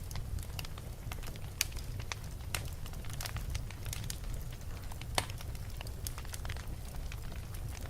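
Fire burning in a fireplace: irregular crackles and pops over a steady low rumble, with sharper pops about one and a half and five seconds in.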